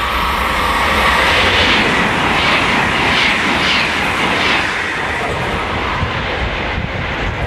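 Italian high-speed train passing at speed: a loud, steady rush of wheel and air noise with a few brief swells in the middle.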